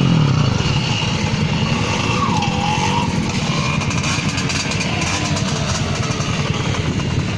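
50cc moped engine running with a fast, steady low putter; its pitch drops as the revs fall right at the start.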